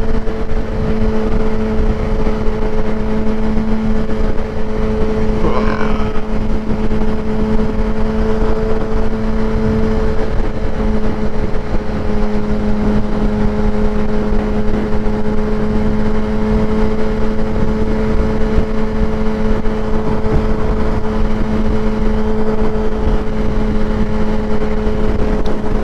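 Kawasaki ZX-10R inline-four with a Graves race exhaust running at a steady, unchanging engine note while cruising, with road and wind noise underneath.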